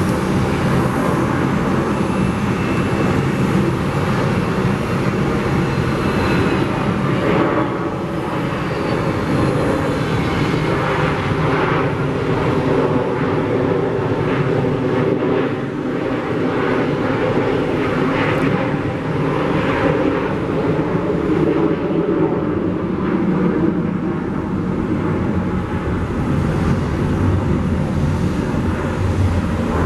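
Jet airliner engines running loudly and steadily.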